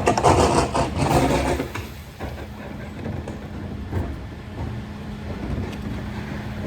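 Mercedes Econic refuse truck running, with a loud rattling clatter for about the first two seconds. It then settles into a steady hum with a few scattered knocks.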